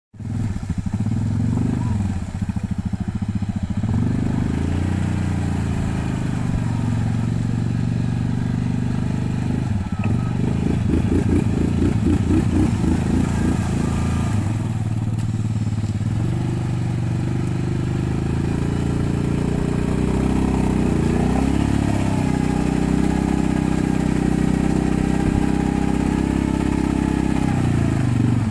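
Quad bike engine running and revving hard through a bog, its pitch dropping and climbing several times as it works under load, with a choppy, pulsing stretch partway through.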